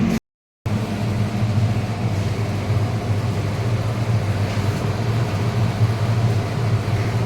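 Refrigeration machinery running with a steady low hum, a compressor-and-fan drone. The sound drops out completely for about half a second just after the start.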